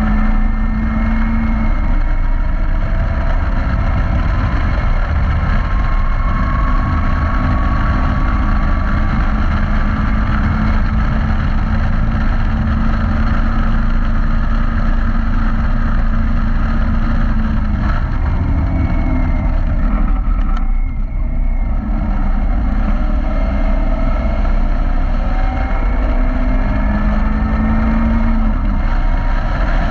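Caterham Roadsport sports car engine running hard at steady high revs on a track lap, heard onboard from the open cockpit. The engine note drops away briefly about two-thirds of the way through, then picks up again.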